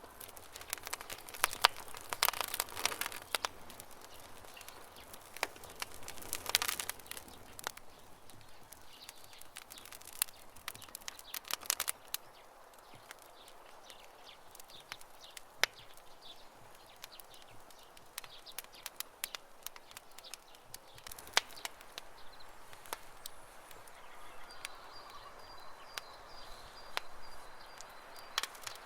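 Campfire crackling, with scattered sharp pops and snaps that come thicker in a few clusters, and birds chirping in the background. A thin, high held note near the end.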